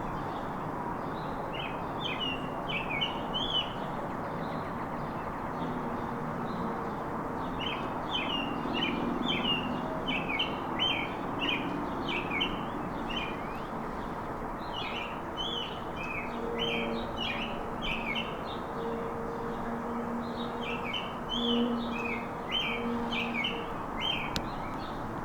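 Songbirds chirping in a backyard, in repeated bouts of quick high chirps, over a steady background rush.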